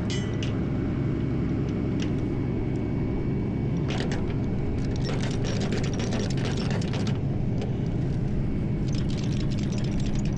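A tow truck's engine idling with a steady low hum, with spells of mechanical clicking and rattling about four seconds in and again near the end.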